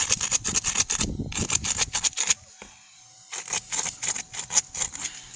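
Asphalt shingles being pried up and handled: a busy run of scraping, crackling clicks, with a lull of about a second midway before it starts again.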